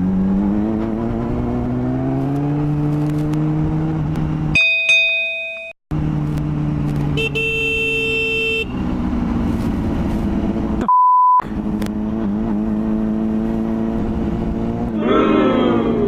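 Motorcycle engine running while riding, its revs rising over the first few seconds and then holding steady. The engine sound is broken by a short stretch of electronic tones about five seconds in and by a single steady beep about eleven seconds in.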